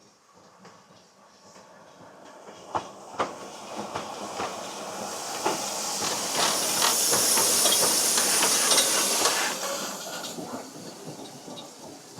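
A narrow-gauge steam train passing: the hiss of steam and the clatter of the train rise to a peak past the middle, then fade away. Sharp clicks and knocks of the wheels sound along the way.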